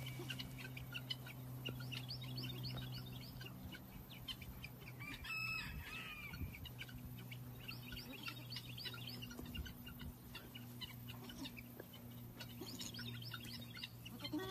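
Faint birds chirping outdoors in quick runs of short high notes, with one longer pitched call about five seconds in, over a steady low hum.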